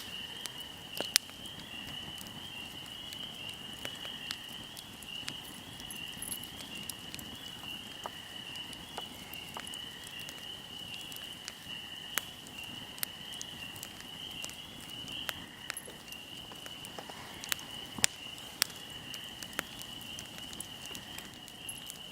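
A fire crackling, with irregular sharp pops scattered throughout, over a steady high trill of crickets.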